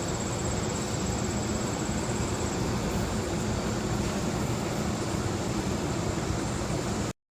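Steady, even rushing background noise with no distinct events, cutting off abruptly near the end.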